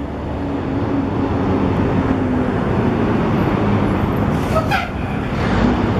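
Steady low mechanical rumble, as of engines or machinery running, with a brief high squeal about four and a half seconds in.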